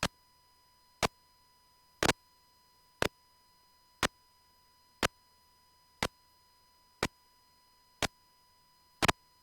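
Sharp ticks, evenly spaced about once a second, a few of them doubled, over a faint steady high tone and otherwise near silence.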